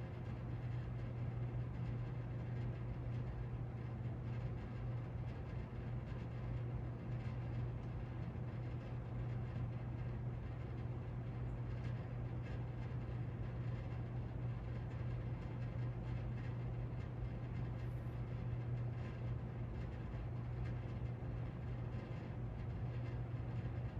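Casablanca Lady Delta ceiling fan running steadily on medium speed: an even motor hum under the rush of air from the blades.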